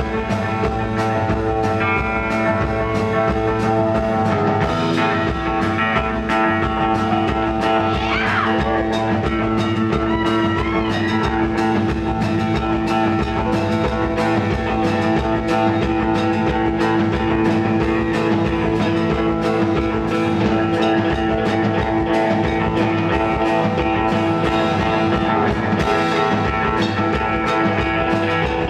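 Live rock band playing an instrumental stretch: electric guitars sustaining over a steady drum beat, with a gliding guitar line about eight seconds in.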